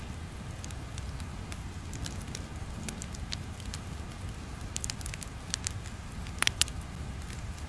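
Crackling fire ambience: a steady low rumble with sparse sharp pops and crackles, and a few louder pops close together near the end.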